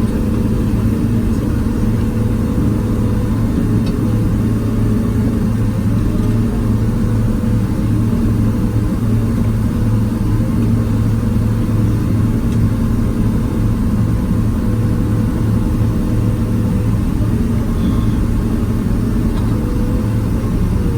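Boeing 767-300ER's jet engines and airflow droning steadily inside the economy cabin: a loud low hum with a higher tone that wavers up and down.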